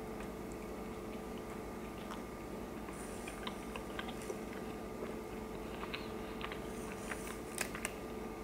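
Faint mouth and handling sounds of biting into a soft flour-tortilla beef burrito and chewing: scattered small clicks and soft rustles, more of them toward the end, over a steady low hum.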